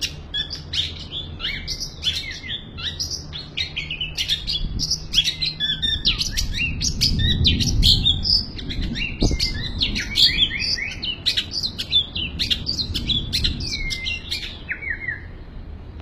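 Long-tailed shrike (cendet) singing a continuous, rapid, varied song of short chirps, trills and glides, packed with mimicked calls of other birds.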